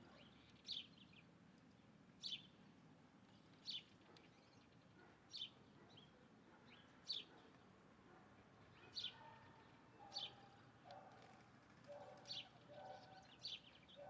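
A bird repeating a short, high, downward-sliding chirp about every second and a half. Fainter, lower calls come in during the second half.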